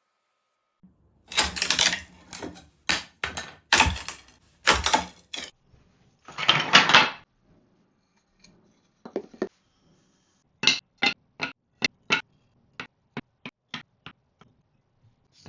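Hard objects knocking and clattering in an irregular run, with a brief scraping rub about halfway, followed by a series of about ten sharp clicks at roughly three a second.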